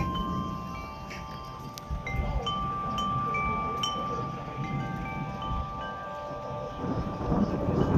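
Wind chimes ringing at scattered pitches in gusty wind, with wind rumbling on the microphone. The wind noise grows louder near the end.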